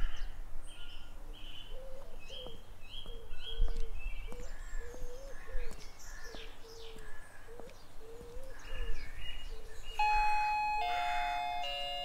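Birds chirping, with a repeated wavering call and short higher chirps. About ten seconds in, a doorbell chimes three descending notes.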